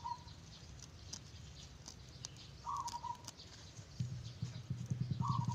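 A bird calling: one short call repeated about every two and a half seconds, three times in all, over a few faint scratching ticks. About four seconds in, a low engine drone with a fast pulse starts and grows louder.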